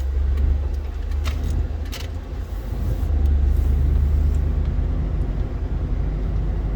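Ford F-150 Lightning electric pickup driving slowly, a steady low rumble of tyres and air with no engine note. A couple of sharp clicks come in the first two seconds.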